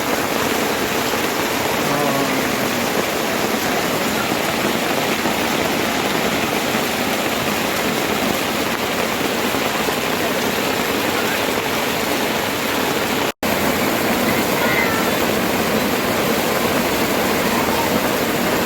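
Heavy hail falling, a dense steady hiss of countless stones striking. It drops out for an instant about thirteen seconds in.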